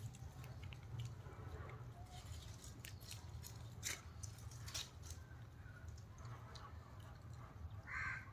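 Faint, scattered clicks and rustles of monkeys handling and eating the food they have been given, over a low steady hum, with a short call near the end.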